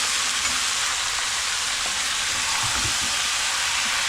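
Pieces of local chicken frying in a pan with a steady sizzle, being cooked down until crisp.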